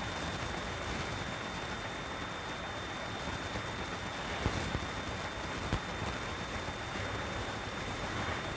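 Steady engine, road and wind noise of a container truck on the move, with a couple of short knocks near the middle and a thin high whine underneath.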